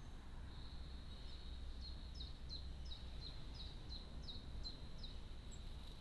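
A bird calling a rapid series of about a dozen short notes, each sliding down in pitch, about three a second; it starts about a second in and stops about a second before the end.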